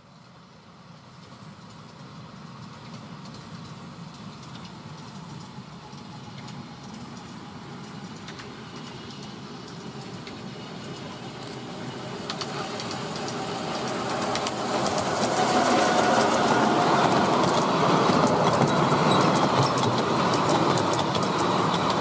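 Miniature railway train approaching and running past, growing steadily louder as it nears, with its wheels clicking over the rail joints; loudest in the last third as the carriages pass close by.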